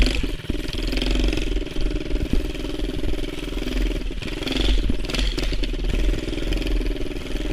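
Mini bike's Predator 212cc single-cylinder four-stroke engine running under throttle while being ridden, its note holding fairly steady with small rises and dips.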